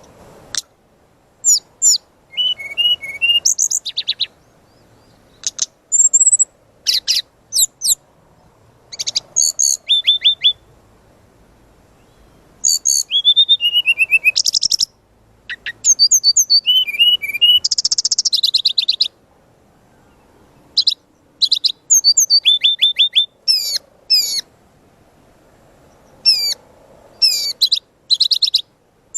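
Brown-chested jungle flycatcher (sikatan rimba dada coklat) singing a loud, varied song. Its phrases are bursts of rapid high chirps, whistled sweeps and short trills, separated by pauses of a second or two.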